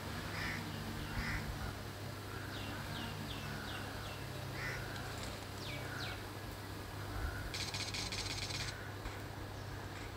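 Birds calling: a run of short, quick down-slurred chirps, then a dry buzzing trill about a second long near the end, over a steady low hum.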